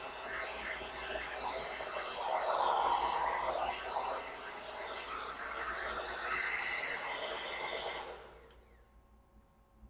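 Xlinder 1875W infrared hair dryer blowing as it dries hair, its rushing air swelling and easing in loudness as it is moved. About eight seconds in it is switched off and dies away over a second.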